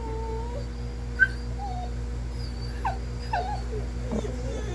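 Domestic dog whining: one drawn-out whine at the start, then a string of short, high-pitched whimpers and whines every second or so.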